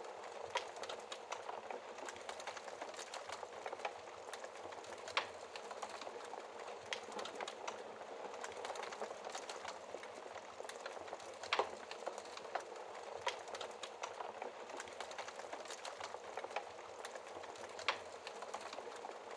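Wood fire crackling: a steady soft hiss with frequent small pops and snaps, and a few louder snaps every several seconds.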